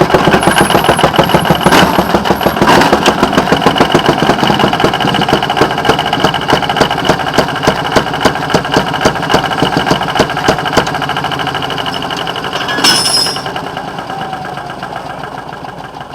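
Small rail motorcar (speeder) engine running with a regular, slow firing beat that grows gradually fainter. A brief hiss comes about three quarters of the way through.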